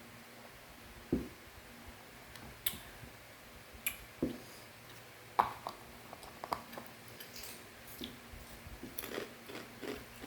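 A person eating a crunchy fried macaroni snack: irregular crunches and clicks of biting and chewing, over a faint steady hum.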